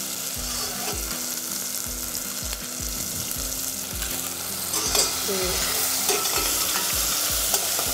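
Almond-cashew paste frying in ghee in a steel saucepan: a steady sizzle, with a ladle stirring and knocking irregularly against the pan.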